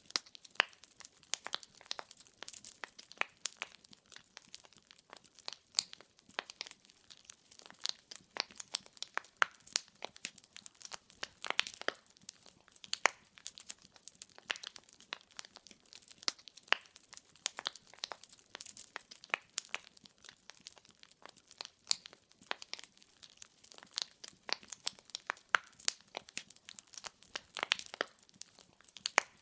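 Firewood burning in a fireplace, crackling with a steady run of sharp, irregular pops and snaps over a faint hiss.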